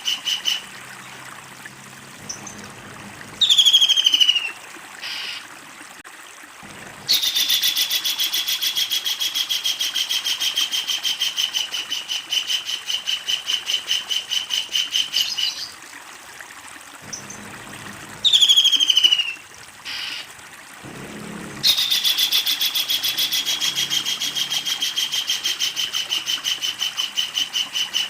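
Kingfisher calling: a short, sharp note sliding down in pitch, then a long, rapid rattling series of high notes that sags slightly in pitch as it goes on for several seconds. The pattern comes twice.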